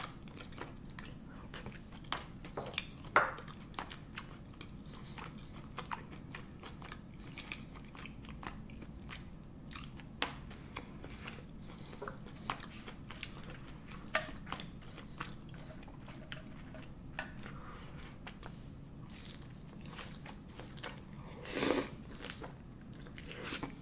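Close-miked eating sounds: chewing and biting on chewy rice cakes in sauce and fried seaweed rolls, with many small wet mouth clicks and smacks at irregular intervals. A louder one comes about three seconds in and a longer, louder one near the end.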